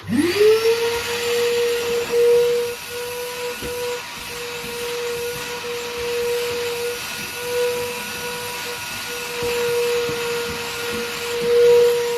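Vacuum cleaner switched on: its motor spins up with a quick rising whine, then runs steadily with a constant hum and airy hiss, swelling a little in loudness now and then.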